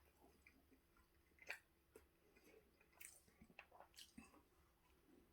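Faint chewing of a flaky pastry slice with chicken and bacon filling, with a few scattered soft clicks of mouth and pastry.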